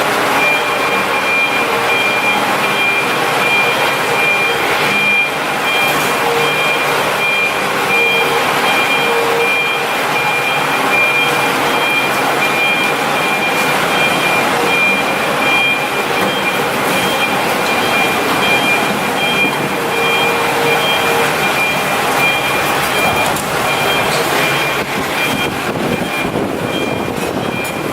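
A 500 kW open diesel generator set with a Shangchai engine running steadily, a dense mechanical drone with a thin, steady high-pitched whine over it.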